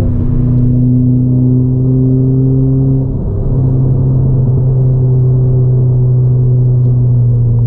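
Ford Fiesta ST180's turbocharged 1.6-litre four-cylinder engine, running through a 3-inch Gravity Performance exhaust, heard from inside the cabin under way on track. The engine note holds steady, with a short dip about three seconds in.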